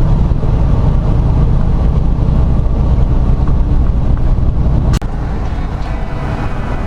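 Semi truck's diesel engine droning steadily, heard from inside the cab with road noise. About five seconds in there is a sharp click, after which the drone is quieter.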